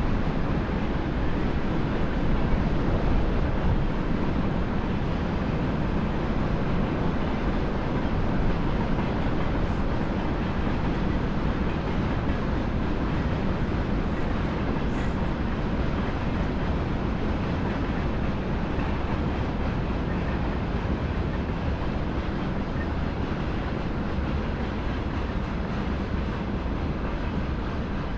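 A train running past on the railway line: a steady, dense noise heavy in the low end that eases slightly toward the end. A few faint high bird chirps come through in the middle.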